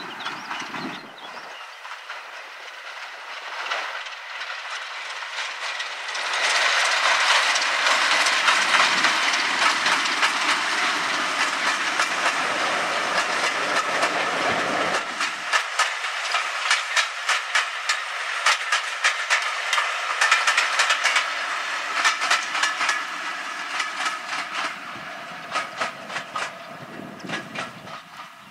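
A diesel locomotive running as it approaches and passes, followed by its passenger coaches, whose wheels clatter over the rail joints in a fast run of clicks through the second half. The sound fades near the end.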